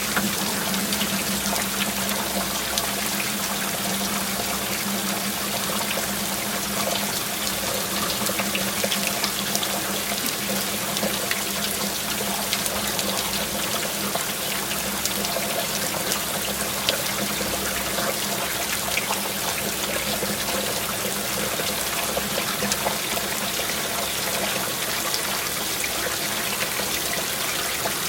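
Heavy rain falling steadily with water running and splashing, many separate drops ticking through an even wash of noise.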